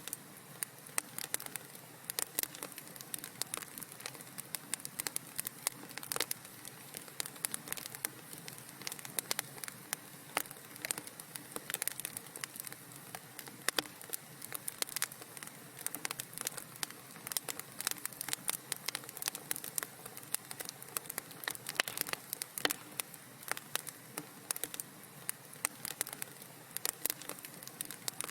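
Wood fire crackling in a fireplace: a dense, irregular stream of sharp pops and snaps over a soft steady hiss.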